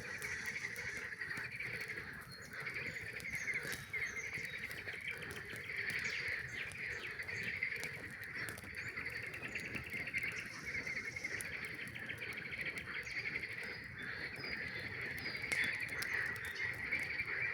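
Chorus of many frogs calling at once, a dense, rapidly pulsing trill that swells and eases, with occasional sharp crackles from a wood campfire.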